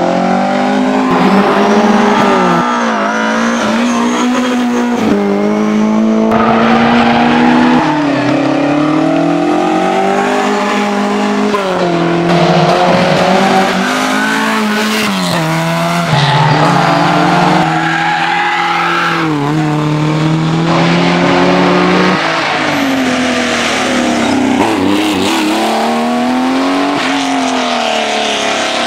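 Historic rally car engines at full throttle, their pitch rising and falling again and again through gear changes and corners. The sound switches abruptly several times from one car to the next.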